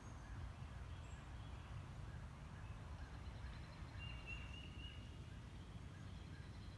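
Faint outdoor nature ambience: a steady low rumble under scattered distant bird chirps, with one clearer bird call about four seconds in.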